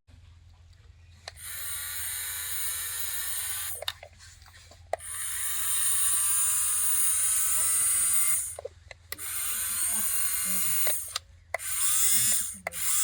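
Small electric motor of a radio-controlled toy bulldozer whirring in several runs of one to three and a half seconds with brief pauses between them, its pitch sliding up and down as it speeds up and slows.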